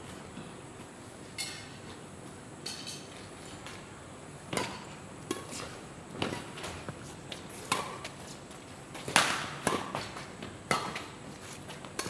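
Badminton doubles rally: a string of sharp racket hits on the shuttlecock, irregularly spaced about a second apart, the loudest about nine seconds in.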